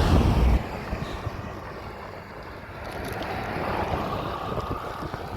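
Wind buffeting the microphone while riding a bicycle on the road: a strong low rumbling gust dies down after about half a second into a steadier rushing noise.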